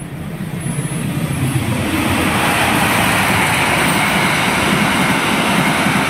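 A diesel-hauled passenger train passing at speed. The locomotive's engine grows louder over the first two seconds as it comes by, then the coaches' wheels on the rails make a steady, loud rushing noise.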